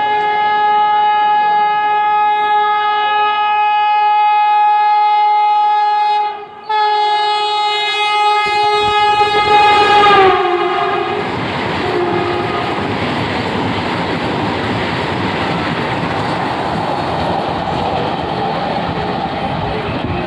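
Vande Bharat Express train set sounding a long, steady horn while running through a station at speed, with a short break about six seconds in. About ten seconds in, the horn's pitch drops as the train passes, and then the rushing clatter of the passing coaches continues.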